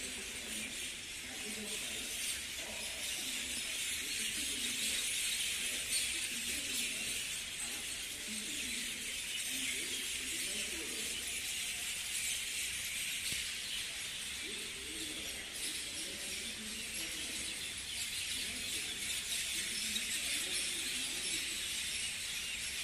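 A flock of many small birds chirping at once in a dense, steady chorus of high, overlapping calls.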